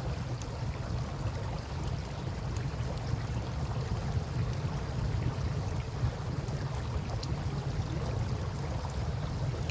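Campfire with faint, scattered crackles and pops over the steady rush of river water and a constant low rumble.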